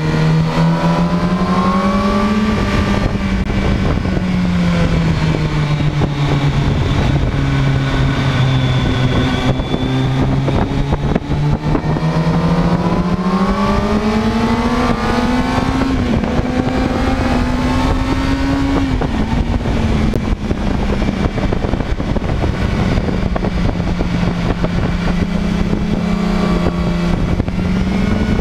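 Sport motorcycle engine heard from onboard at track speed. Its pitch climbs and falls in long sweeps as the throttle is opened and rolled off through the corners.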